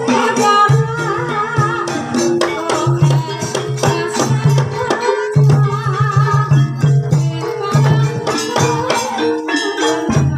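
Live ebeg accompaniment music: Javanese gamelan-style ensemble with stepped pitched notes over a steady low drum pattern, with a wavering melody line above.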